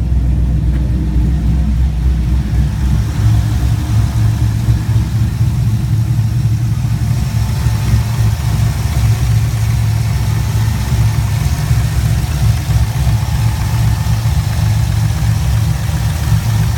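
Cammed 5.3L V8 with a Texas Speed stage 4 camshaft idling steadily at operating temperature, tuned to idle around 925 rpm and no longer stalling. Its low note shifts a little higher about three seconds in.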